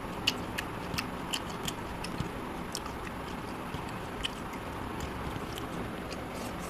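Close-up eating sounds: chewing with short wet mouth clicks while eating rice and curry by hand, the clicks coming every half second or so in the first three seconds and once more past the fourth, over a steady background hiss.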